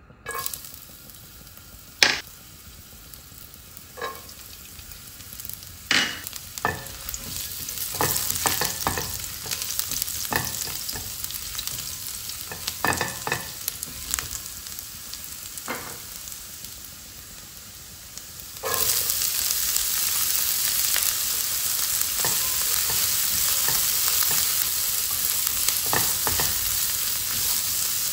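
Chopped ginger sizzling in hot oil in a frying pan while a spatula stirs it, with scattered knocks and scrapes of the spatula on the pan. About two-thirds of the way through, the sizzle suddenly gets much louder and stays loud as chopped onion goes into the pan and is stirred.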